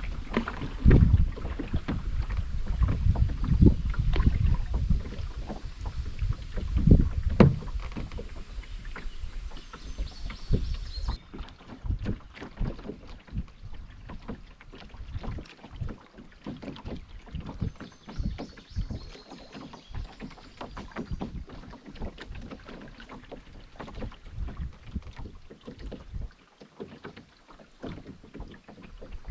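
Water splashing and lapping around a canoe on a river, with many small clicks and trickles. Wind buffets the microphone with a low rumble for the first third, then the sound turns quieter and lighter.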